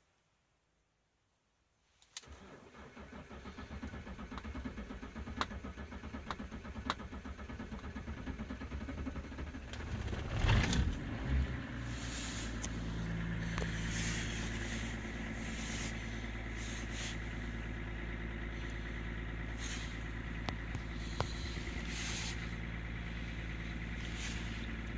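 BMW E39 straight-six turbodiesel cold-started: the starter cranks it with rapid pulsing for several seconds before it catches about ten seconds in with a brief loud flare. It then settles into a steady idle.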